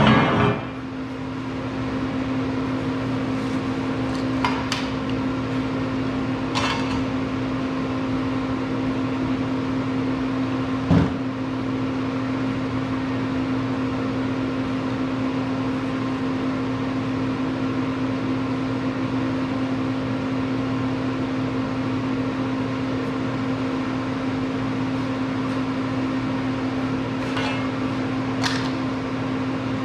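Steady machine hum, even and unchanging, with a few faint clicks and taps now and then.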